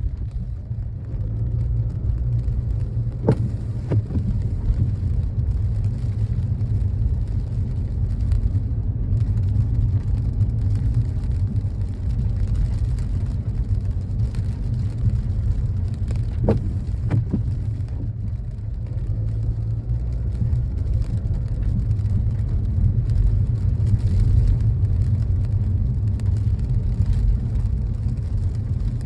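Car driving in rain, a steady low rumble throughout. Two pairs of short sharp knocks come through, one pair about three seconds in and one a little past halfway.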